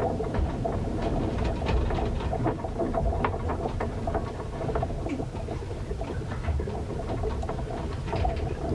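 Aboard a ship in a sea storm: a continuous low rumble of wind and water with many scattered patters and clicks, and short squeaks mixed in.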